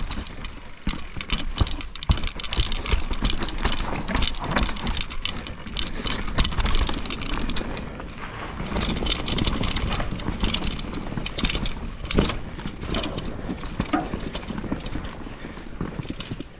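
Mountain bike riding down a wet, rooty trail: a steady rush of tyre noise with frequent clatter and knocks from the bike over roots and bumps.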